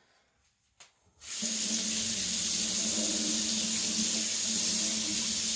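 A water tap comes on about a second in and runs steadily into a sink, rinsing off the slurry from flattening a whetstone.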